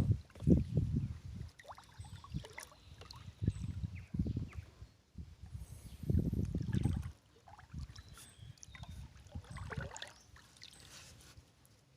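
Paddle strokes moving a small boat through the water, a splashing swish about every two and a half seconds, with faint trickling between strokes.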